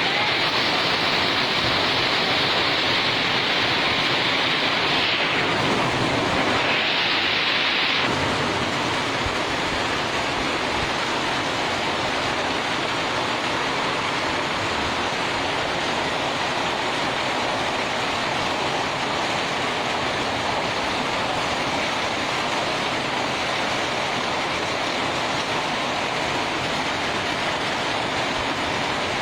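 Hailstorm: a dense, steady hiss of hail and rain pelting down, a little louder and brighter for the first eight seconds or so.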